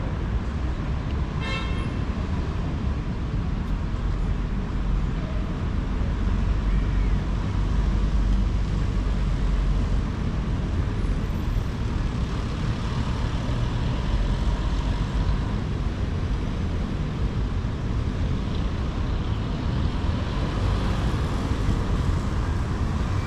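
Street traffic in a city: a steady low rumble of vehicle engines and tyres, with a short, high horn toot about a second and a half in.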